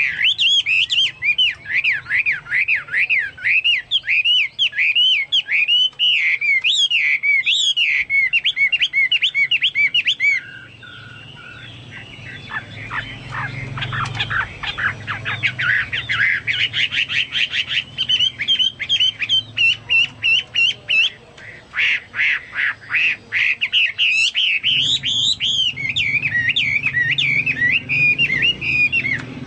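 Chinese hwamei singing in fast runs of rapidly repeated, rising whistled notes. Around a third of the way in the song drops to a quieter stretch of rapid chattering notes, and the loud song returns about two-thirds of the way through.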